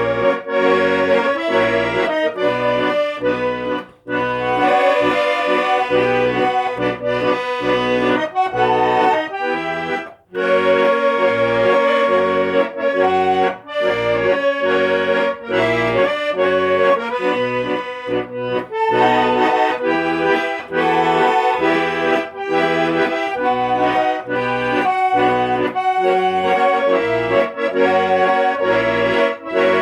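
Accordion music in tango style: a melody over a rhythmic bass accompaniment, with brief pauses about four and ten seconds in.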